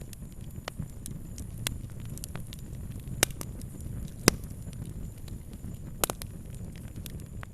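Wood fire crackling: a steady low rumble of burning broken by irregular sharp pops, the loudest about three, four and six seconds in.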